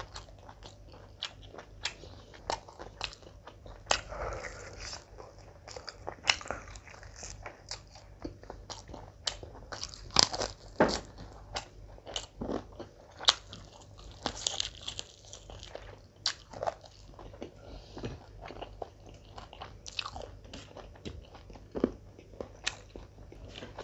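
A person chewing and smacking through a mouthful of mutton biryani eaten by hand, with irregular sharp smacks and crunches.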